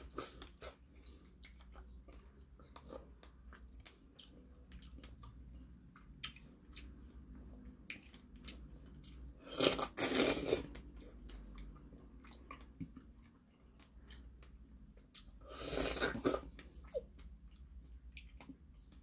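A person biting into and chewing fresh strawberries close to the microphone: soft wet smacking clicks throughout, with two louder stretches, about ten seconds in and again about six seconds later.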